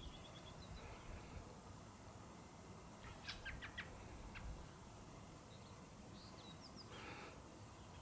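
Faint bird chirps over a quiet hiss: a short rapid trill at the start, a cluster of sharp chirps about three seconds in, and a few more calls near the end.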